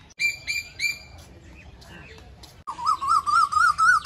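Bird calls: three short, clear chirps, then about two and a half seconds in a loud, long wavering call that rises slightly in pitch and lasts nearly two seconds.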